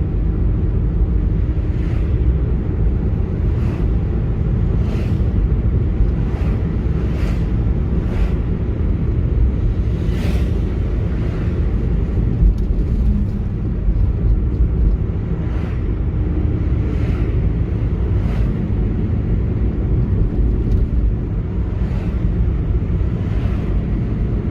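Car driving through city streets: a steady low rumble of engine and tyres on the road, with brief knocks or clicks about once a second at uneven intervals.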